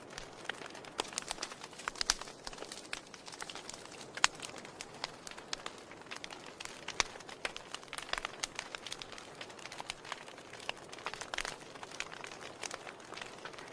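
Wood fire crackling in a fireplace: a soft steady hiss with frequent irregular pops and snaps, a few sharper ones standing out.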